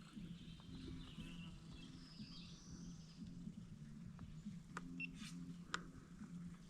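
Faint birds chirping over a low steady hum, with a few sharp clicks in the second half, the loudest about three quarters of the way through.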